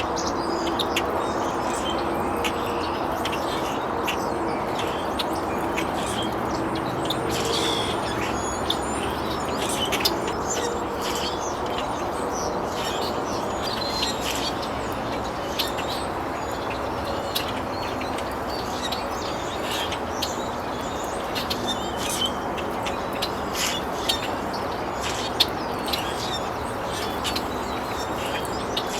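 Many birds chirping, short high calls scattered throughout, over a steady low background hum.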